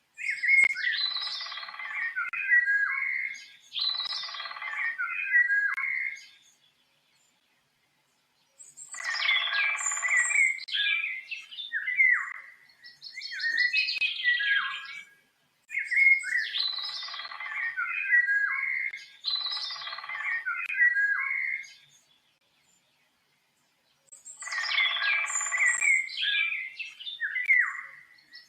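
A songbird singing long, busy phrases of quick chirps and whistles, in bouts several seconds long, broken twice by silent pauses of about two seconds.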